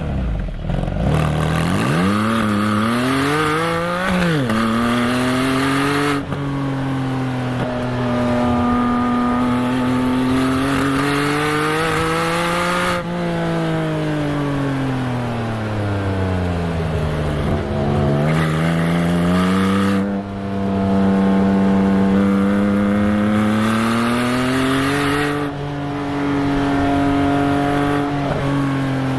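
Porsche 718 Spyder's flat-six exhaust, recorded at the rear bumper, revving up and down through the gears with several quick PDK gear changes. The note sounds farty when the revs drop low, an effect of the bumper microphone placement.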